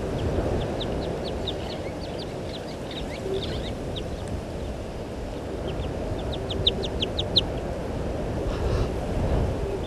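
Birds calling in short, high chirps, scattered at first and then a quick run of about seven notes a little past the middle, over a steady low rumble.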